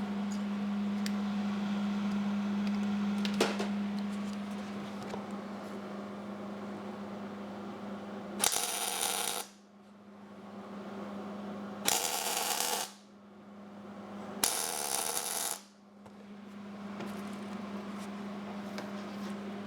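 Three short MIG tack welds, each a crackling burst of about a second that starts with a click and cuts off sharply, over a steady low machine hum.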